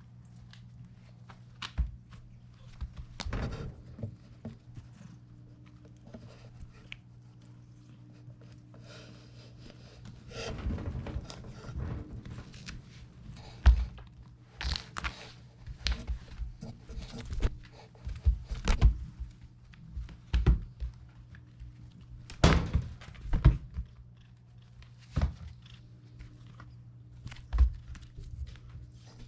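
Cats pouncing and scrambling on the floor after a string toy: irregular thumps and scuffs, busiest in the second half, over a steady low hum.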